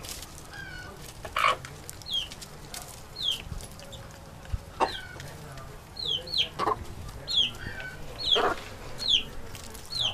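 Chickens clucking, with a few louder short squawks and short high falling calls repeating about once a second.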